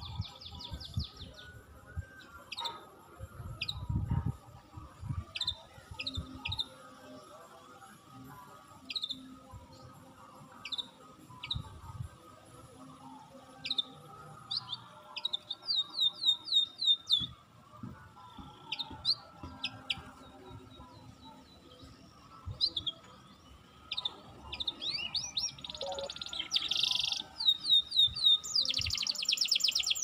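Wild songbirds chirping: scattered short high chirps, with quick runs of rapidly repeated falling notes about halfway through and again near the end, where the calling is loudest.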